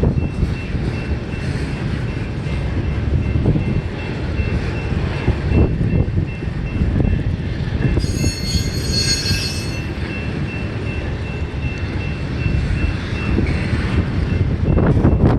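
Union Pacific intermodal freight train rolling past, its cars and wheels giving a dense rumble with a thin steady wheel squeal over it. About halfway through, a sharper, higher squeal rises for about two seconds. Strong gusting wind buffets the microphone.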